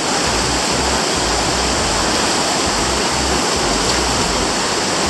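Steady, loud rush of river water pouring over a waterfall and through rapids.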